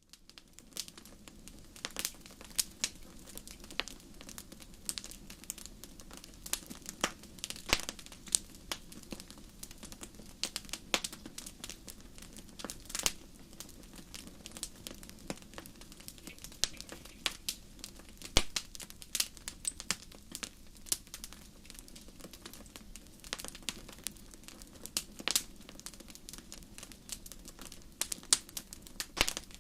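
Wood campfire crackling: irregular sharp pops and snaps, some louder than others, over a low steady rush of burning.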